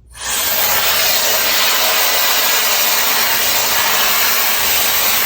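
Shark FlexStyle air styler with its curling barrel attached, switching on right at the start and then blowing air in a loud, steady rush.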